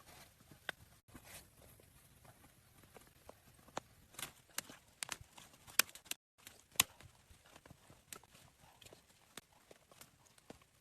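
Scattered sharp clicks and knocks at an uneven pace, a few louder ones in the middle, over a faint hiss. The sound drops out briefly twice, about one second in and about six seconds in.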